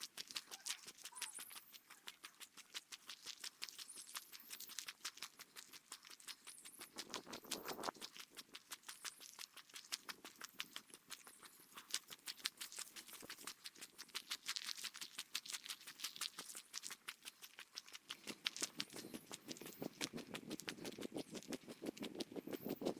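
Footsteps on a forest trail, played back sped up about threefold, so they come as a fast, even patter of about six steps a second.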